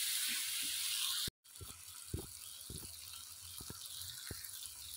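Fried onion-tomato masala sizzling in oil in a wok; the sizzle cuts off abruptly a little over a second in. It comes back fainter, with a few light knocks of a spatula against the pan.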